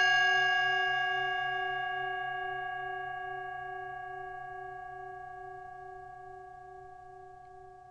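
A meditation bell of the singing-bowl kind, struck once, ringing out with several clear tones and slowly dying away. The lower tones pulse slowly as they fade.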